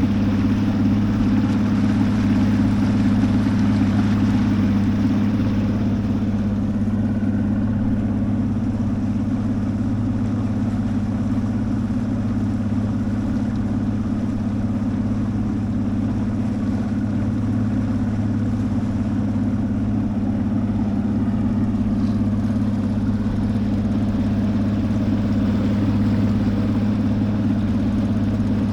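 Motorboat engine running steadily at a constant speed, a steady low drone that does not change in pitch.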